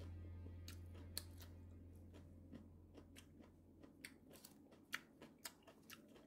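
A person chewing a mouthful of raw shredded carrot salad (carrot râpé): quiet, irregular crisp crunches and mouth smacking, a few a second.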